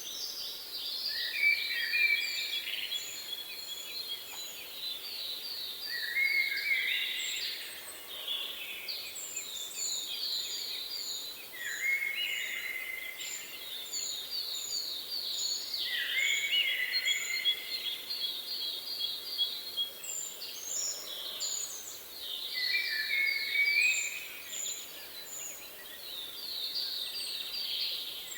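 Several songbirds singing: repeated trilled phrases come every few seconds, over a run of thin, very high repeated notes from another bird.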